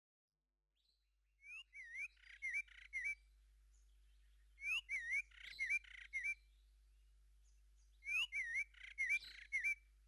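Faint bird song: a short phrase of gliding, whistled notes, the same phrase repeated three times about three seconds apart.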